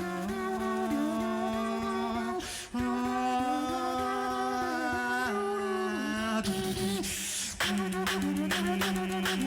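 Tag-team beatboxers performing a cappella: a held bass hum that steps between pitches under a sung melody line. A breathy hiss comes about two-thirds of the way through, then quick rhythmic clicks like hi-hats come in near the end.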